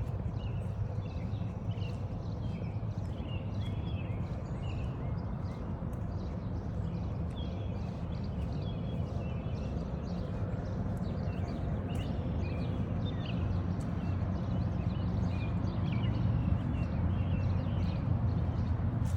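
Several songbirds chirping and singing through a dawn chorus, over a steady low rumble. Footsteps on a forest trail run beneath as even clicks.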